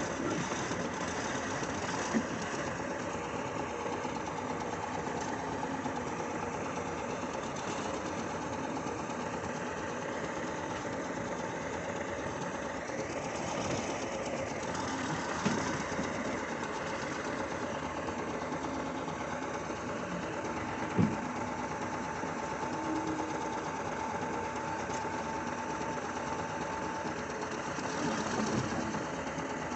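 Diesel engine running steadily with a rapid rattling clatter, with a few single sharp knocks about two, fifteen and twenty-one seconds in.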